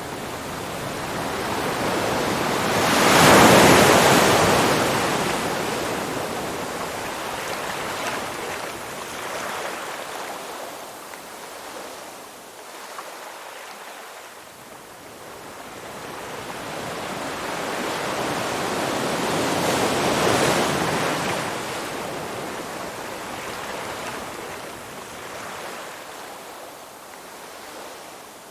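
Ocean waves washing onto a shore. Two big swells of surf rise and fall away, one about three seconds in and a louder-than-all second one of similar shape near twenty seconds, with a softer wash in between.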